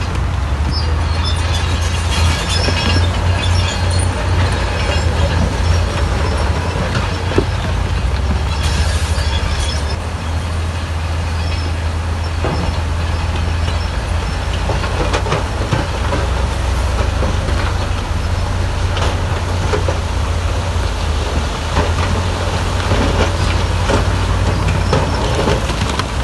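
Heavy earthmoving machinery running steadily: a deep diesel engine drone with scattered clanks and knocks, as from a tracked bulldozer at work.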